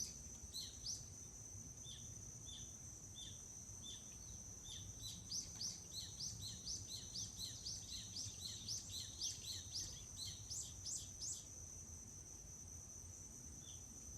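A songbird calling in the forest over a steady high insect trill. It gives a few evenly spaced chirps, then from about five seconds in a quick run of sweeping notes that stops near the eleventh second, with a couple of notes again at the end.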